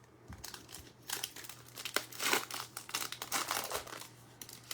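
Plastic wrapper of a pack of football trading cards crinkling and being torn open by hand, a dense crackling rustle for about three and a half seconds, loudest around the middle.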